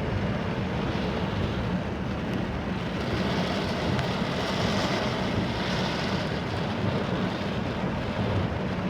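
Inside a moving car: steady engine hum and tyre noise on a wet road, with the hiss growing a little about three seconds in.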